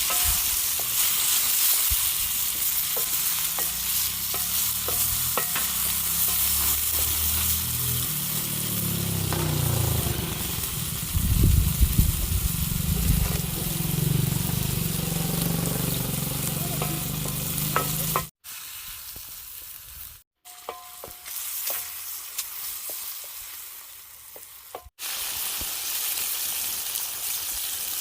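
Food frying and sizzling in hot oil in a cooking pot, with stirring. The sizzle cuts off sharply about two-thirds of the way through, stays much quieter for several seconds, then comes back.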